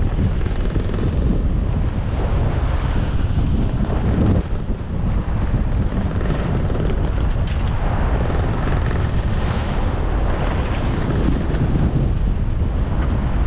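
Strong wind of about 15 m/s buffeting the microphone aboard a small sailing yacht, over the rush of waves and water along the hull. It rises and falls in gusts.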